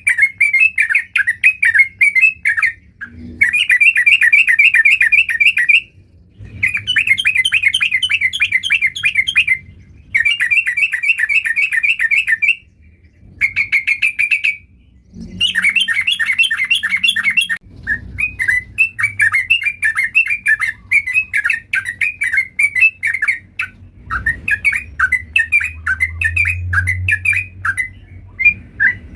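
Sooty-headed bulbul (trucukan) singing in a full-voiced gacor song: fast chattering bouts of a few seconds, broken by short pauses. In the last ten seconds it shifts to separate, evenly repeated phrases.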